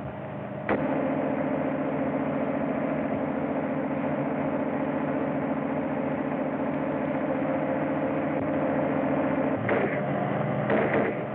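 A vehicle engine running steadily on an old, narrow-band film soundtrack. The sound jumps abruptly a little under a second in, and shifts again twice in the last couple of seconds.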